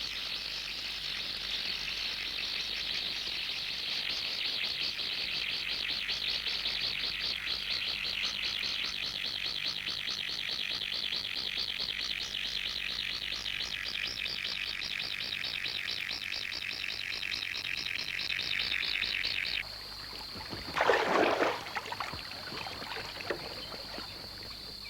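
A dense chorus of insects such as crickets, fast and finely pulsing. A little under twenty seconds in it gives way to a steadier, thinner high trill. A brief louder sound comes about a second after that.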